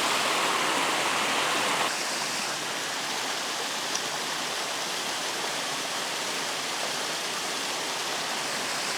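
Steady rush of a waterfall's falling water close by, dropping a little in level about two seconds in.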